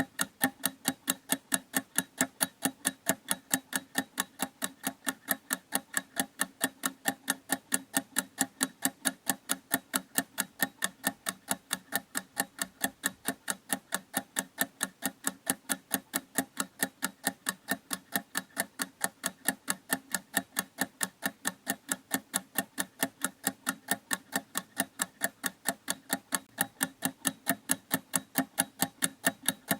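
Clock ticking steadily: evenly spaced, sharp ticks, several a second, never changing in pace or loudness.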